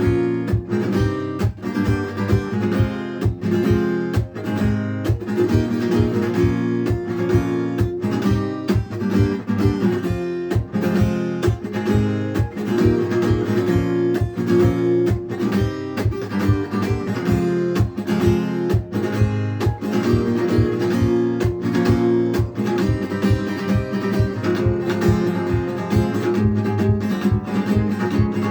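Guitar strummed in a steady, even rhythm, with no voice.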